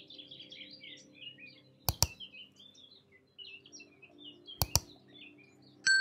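Small birds chirping and singing over a soft, steady music drone. Two sharp double clicks about two and four and a half seconds in, the loudest sounds, and a bell-like ding near the end: the click and bell sound effects of a subscribe-button animation.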